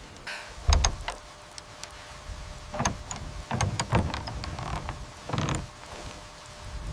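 Wood and rope creaking under load: a few short, separate creaks and clicks, some with a brief squeak. The loudest comes about a second in.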